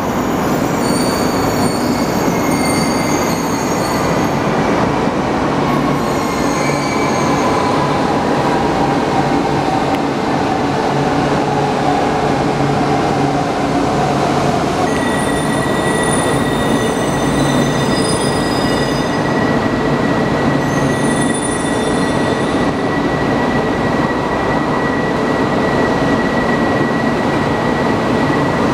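E4 series MAX double-decker Shinkansen running in along an underground station platform: a steady loud rumble with a whine gliding down in pitch through the middle of the passage and scattered high wheel squeals. About halfway through, a steady high tone starts and holds.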